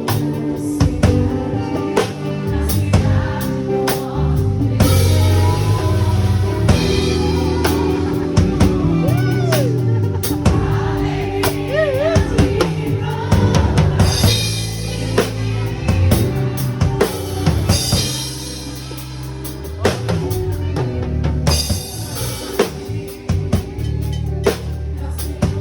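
Drum kit played to a Brazilian gospel worship medley: steady kick, snare and rimshot hits over sustained bass and keyboard chords, with cymbal washes at several points and a sung line near the middle.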